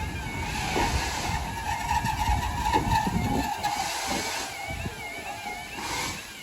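Level crossing yodel alarms sounding with a steady warbling tone, one of them faulty. Swells of rushing noise pass over the alarms several times.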